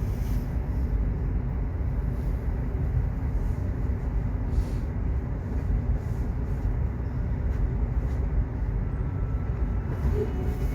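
Subway train running: a steady low rumble of the carriage and wheels on the track, with a few faint clicks and faint steady tones coming in near the end.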